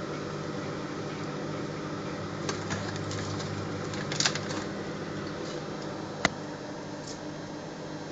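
Microwave oven running with a steady hum while it heats potato chips, with a few faint clicks and one sharper click about six seconds in.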